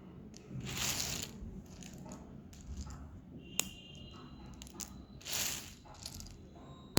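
Dry clay being crushed and crumbled, with two longer crunching bursts, about a second in and again past the five-second mark, and small crackles and a sharp click between them.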